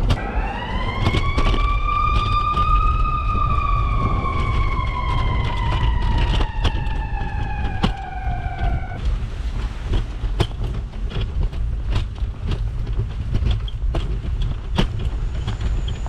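An emergency vehicle siren rises in pitch for about three seconds, then slowly falls for about six more and cuts off suddenly, over a steady low rumble of city traffic. Many short sharp clicks sound throughout.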